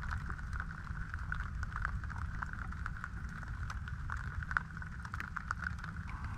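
Rain pattering on a rain jacket close by: many light, irregular taps over a steady low rumble.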